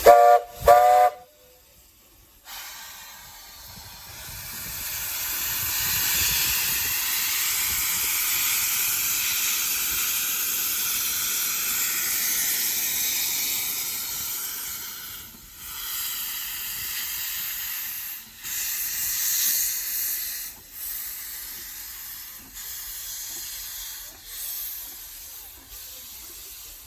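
Steam locomotive Roy O. Disney's whistle, the one carried over from the Roger E. Broggie engine, giving two short toots as the train leaves. After a brief pause, a loud steady steam hiss from the locomotive builds up and then fades in uneven spells.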